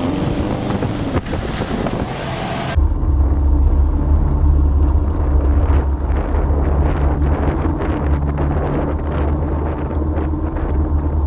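Air-cooled Volkswagen being driven in snow: engine pitch rising under acceleration with wind noise on the microphone, then, after an abrupt cut about three seconds in, a deep steady rumble with scattered clicks.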